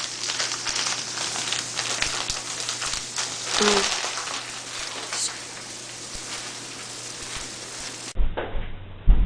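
Sliced onion frying in butter and sugar in a pan, a steady crackling sizzle as it caramelizes. About eight seconds in it cuts to a duller recording with a few low thumps.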